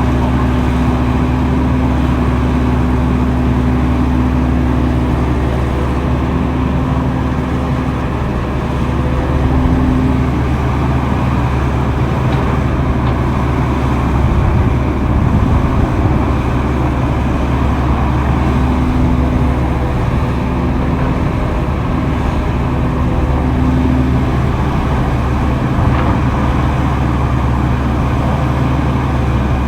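Diesel engine of heavy earthmoving machinery running steadily at a low hum, with a higher tone that comes and goes in stretches of a second or two during the first ten seconds and again near the two-thirds mark.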